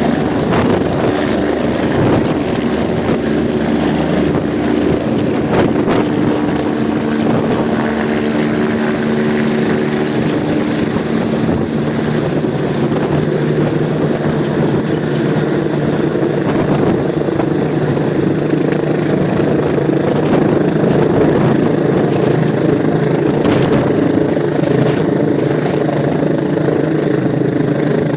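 Air ambulance helicopter running close by, a loud, steady rotor and turbine noise whose tone drops lower partway through.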